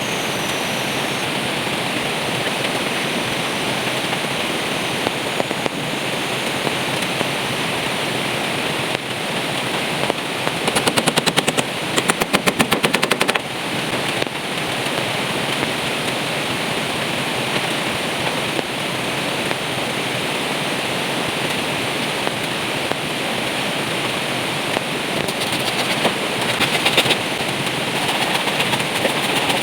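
Heavy rain falling steadily, with a fast rattling run of clicks about ten seconds in that lasts about three seconds, and a shorter one near the end.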